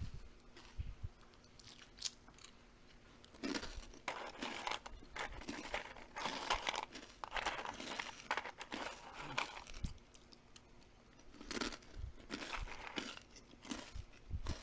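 Crunchy biting and chewing of food in irregular bouts, with short pauses between.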